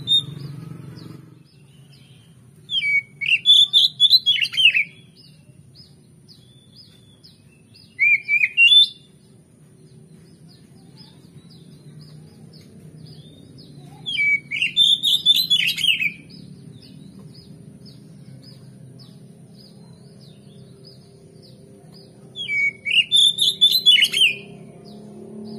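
Oriental magpie-robin (kacer) singing: four short phrases of quick, sweeping whistled notes, separated by pauses of several seconds, over a faint steady low hum.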